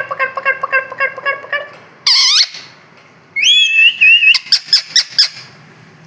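Pet parrot calling: a rapid run of repeated notes, about seven a second, for the first second and a half, then a short loud shrill screech about two seconds in, and a loud burst of squawks and chatter from about three and a half to five seconds.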